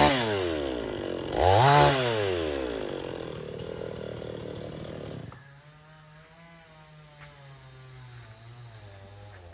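Chainsaw engine revved up once and let back down, the pitch falling away. About five seconds in it drops abruptly to a quiet, steady idle.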